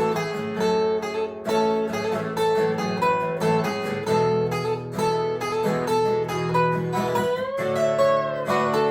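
Guitar music without singing: a strummed acoustic guitar with a lead line over it, one note bending upward about seven and a half seconds in.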